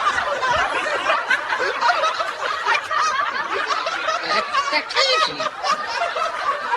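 People laughing, snickering and chuckling.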